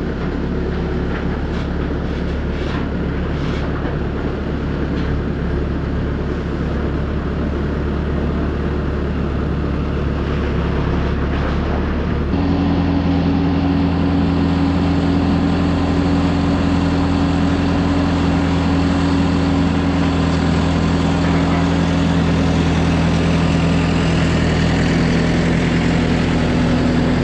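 Farm machine's engine running steadily; about twelve seconds in it speeds up to a higher, louder steady hum and holds there.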